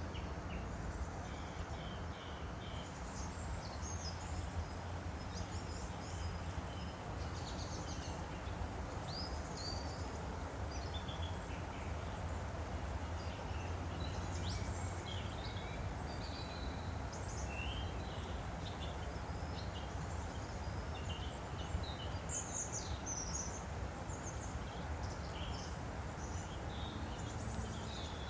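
A woodland stream flowing steadily, with small songbirds chirping and twittering in short calls throughout.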